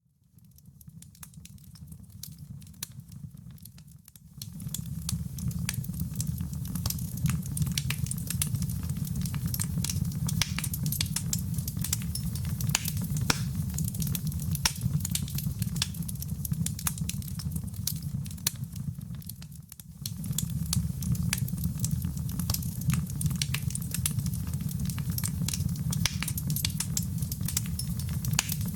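Wood fire crackling, with many sharp pops and snaps over a low, steady rumble of flame. It starts quietly and grows louder about four seconds in, then turns briefly quieter about twenty seconds in.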